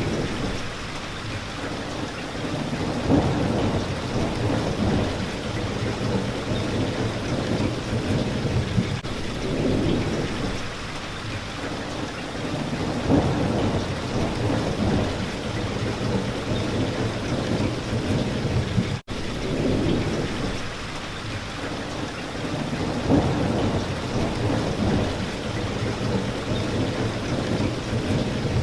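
Steady rain pattering on a window pane, with low thunder rumbling and swelling every few seconds. The sound cuts out for an instant about two-thirds of the way through.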